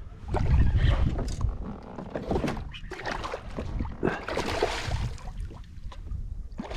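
Water splashing and irregular knocks around a fishing kayak as a just-hooked fish is fought, with a low rumble in the first second.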